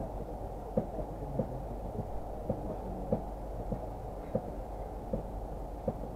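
Muffled running noise of a Moscow Central Circle electric train heard inside the carriage: a steady low rumble and hum, with soft regular knocks about every 0.6 s as the train runs between stations.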